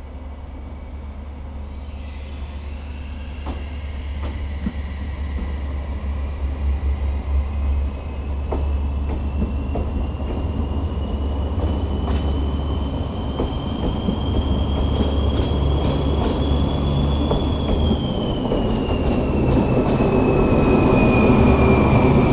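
A train rolling slowly along the rails with its wheels squealing in one long drawn-out tone that slowly rises in pitch, then falls, over a steady low rumble. The sound grows louder toward the end.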